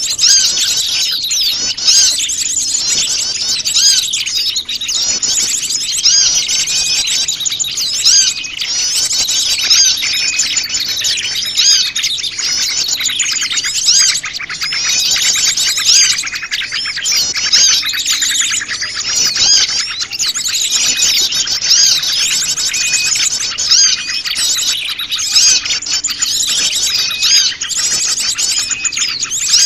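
A dense, busy chorus of many small wild birds chirping and twittering over one another, a mixed small-bird lure recording played to draw small birds in.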